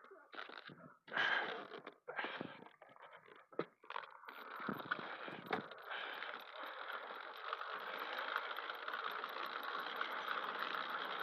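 Scattered knocks and rustles, then about four seconds in the small engine of a motorized bicycle comes on and runs steadily.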